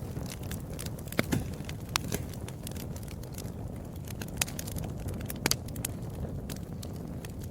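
Wood fire crackling, with scattered sharp pops over a low steady rumble of the flames.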